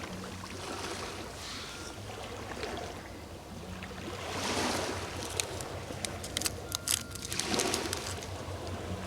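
Sea waves washing onto the shore, swelling up twice, with a run of sharp clicks and crackles between the swells.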